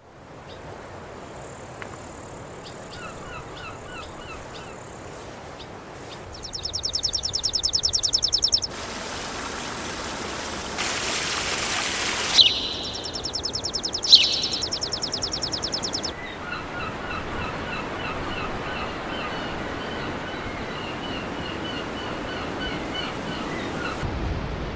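Birds chirping and calling in short repeated phrases, with two stretches of a loud, fast, high-pitched pulsing trill and a few seconds of steady rushing noise between them; the sounds change abruptly from one stretch to the next.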